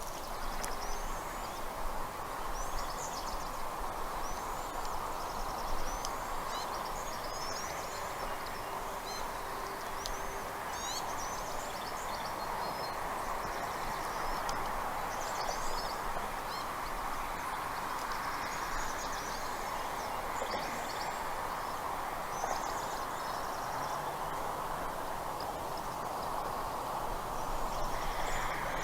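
Birds chirping in many short, high calls scattered throughout, over a steady outdoor hiss.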